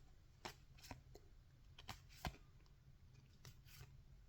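Topps baseball cards being flipped through by hand: a few faint, short clicks and slides of card stock, the sharpest a little past two seconds in.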